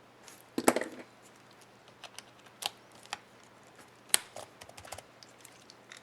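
Keys on an HP ENVY 15 laptop keyboard clicking under a finger. The loudest is a cluster of clicks about half a second in, then single clicks every half second or so, and a quick run of lighter clicks near the end.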